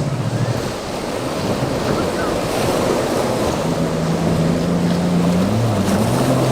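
Rushing wind and water noise from a boat out on the waves, buffeting the microphone. A low droning tone with a few pitch glides joins it from a little before halfway.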